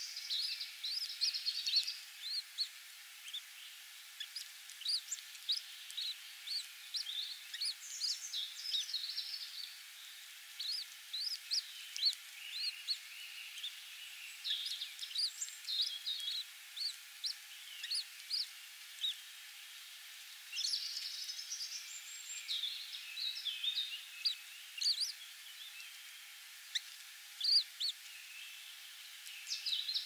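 Birds chirping: many short, high-pitched calls, irregular and often overlapping, with a few longer slurred notes among them.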